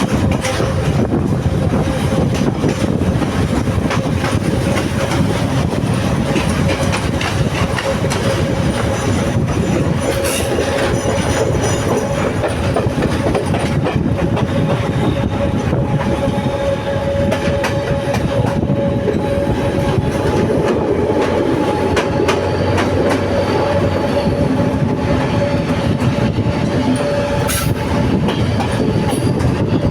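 Sri Lanka Railways Class S11 diesel multiple unit running steadily, with a continuous loud rumble, a steady hum and the wheels clicking over the rail joints.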